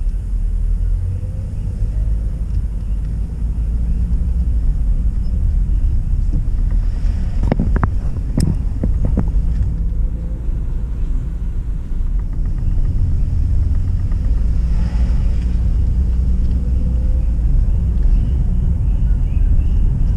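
A car driving on a rural road, heard from inside the cabin: a steady low rumble of engine and tyres, with a few sharp knocks about eight seconds in.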